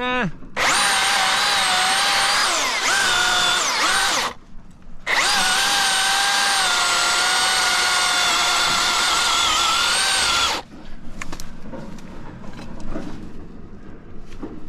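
Milwaukee battery-powered chainsaw's electric motor whining at full throttle in two runs: about four seconds, with the pitch dipping and recovering partway through, then after a brief stop about five and a half seconds more, the pitch sagging and wavering as it cuts wood. After it stops, only fainter irregular noise remains.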